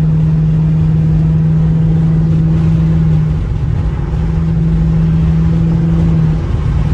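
Straight-piped Dodge Charger R/T's 5.7-litre HEMI V8 exhaust droning at a steady cruise, heard from inside the cabin. The drone eases briefly about halfway through and again near the end.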